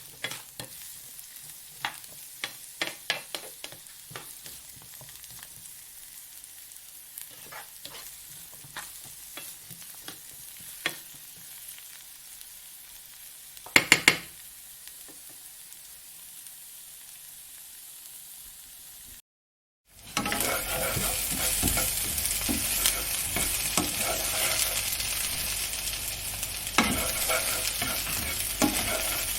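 Two frying sound effects, one after the other. First, sparse pops and crackles of hot oil, with a louder cluster of pops about 14 s in. Then, after a short silent break, a denser and louder steady sizzle.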